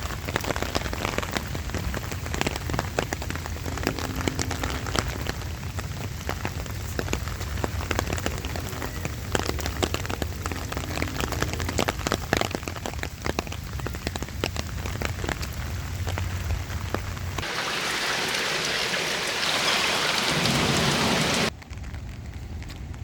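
Light rain falling, with many close drops tapping. About 17 seconds in, a louder, steadier hiss takes over for a few seconds and then cuts off suddenly.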